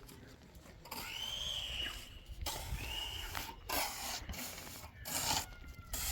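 Two high squealing calls, each rising and then falling in pitch, the first about a second long. Short bursts of scraping or rubbing noise come in between and after them.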